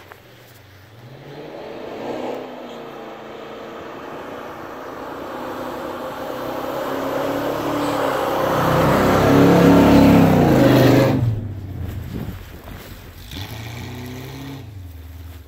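A Willys Jeep's AMC 401 V8 engine revving and pulling hard as the Jeep ploughs through deep snow. It grows louder as the Jeep approaches and is loudest about ten seconds in. It then drops off abruptly, rises once more briefly, and fades as the Jeep pulls away.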